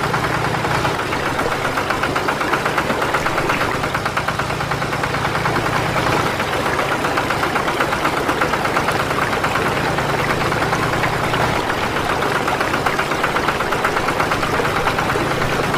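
Small motor running steadily with a fast, even rattle and a low hum that shifts slightly in pitch every few seconds.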